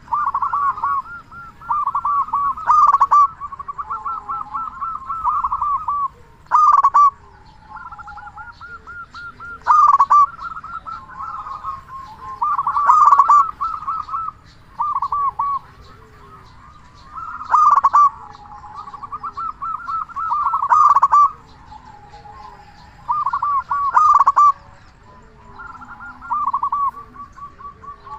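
Zebra dove (perkutut) singing its cooing song over and over: rapid, rolling coos around one pitch, with a louder accented note every three to four seconds.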